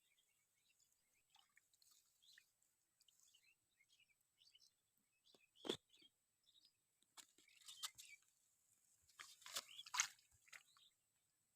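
Very quiet outdoor ambience with faint bird chirps. A few short, sharp crackling or crunching noises come about halfway through, again a couple of seconds later, and in a cluster near the end.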